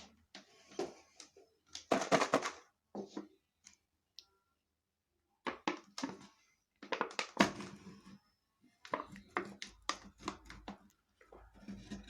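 Crisp crackling and crunching from a bag of garlic-and-cheddar popcorn being handled and eaten, in several short bursts with quiet gaps between them.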